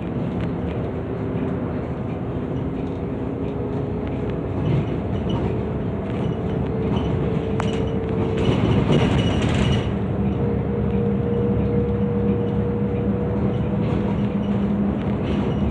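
Volvo B8RLE double-decker bus engine running under way, its hum rising slowly in pitch and growing a little louder after the middle. About halfway through comes a short burst of hiss.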